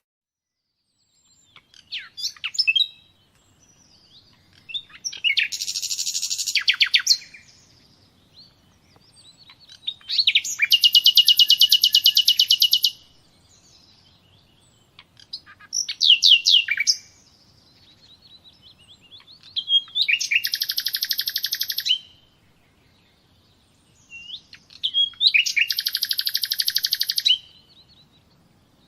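A songbird singing a repeated song: a few short chirps run into a fast, even, high-pitched trill of about two seconds. The song comes four times, about every five seconds, with a shorter chirping phrase between.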